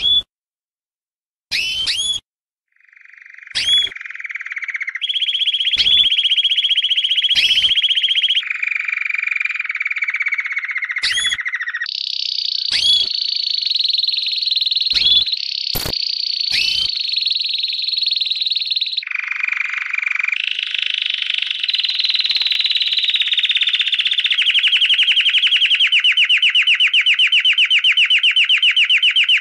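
Lovebird giving a long 'ngekek' chatter: a rapid, high trill held for many seconds and shifting in pitch in sudden steps. Short rising chirps break in over it. Near the end the trill turns into an even, fast pulsing.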